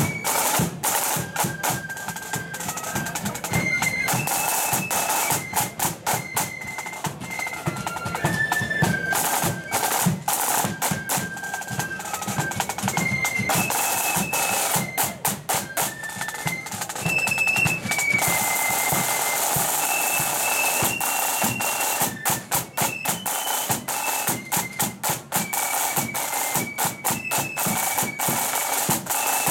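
Marching flute band playing: flutes carrying a high, stepping melody over rapid snare drum strokes and rolls and a bass drum beat.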